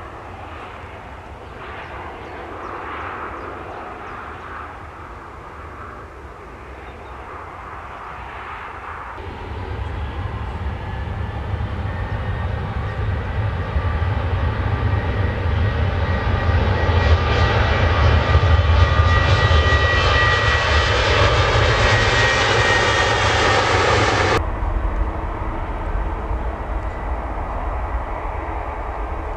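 Jet airliner passing close, its engine noise building over about fifteen seconds into a loud rush with a high whine, one tone slowly falling in pitch. The upper part cuts off suddenly about four-fifths of the way through, leaving a low rumble.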